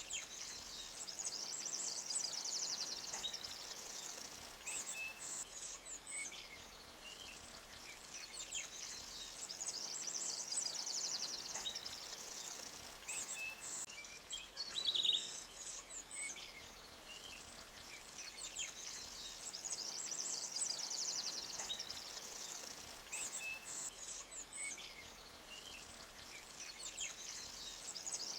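Forest birds singing: a high, rapid trill that recurs about every ten seconds, with short chirps scattered between.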